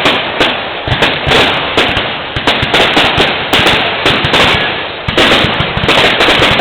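Fireworks going off in quick succession: a dense run of crackling pops and bangs, several a second.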